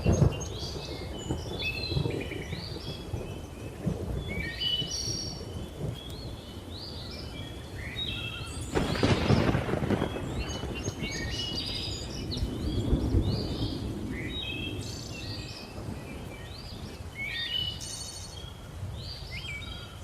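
Thunder rumbling low under a busy chorus of chirping, whistling jungle birds, with a louder roll of thunder about nine seconds in.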